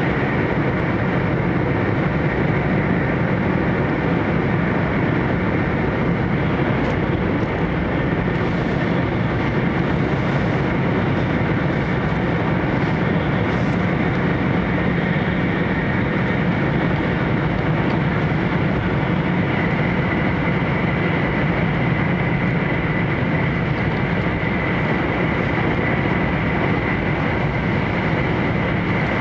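Steady running noise of an E4 series Max Shinkansen at speed, heard inside its upper-deck passenger cabin: an even, constant low rumble. A faint steady high tone joins it about twenty seconds in.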